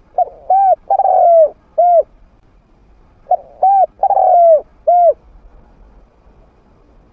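Spotted dove (a trained decoy bird with a medium-pitched voice) cooing, its call used to lure wild doves. It gives two identical phrases about three seconds apart, each of four hollow coos, the third longer and falling in pitch.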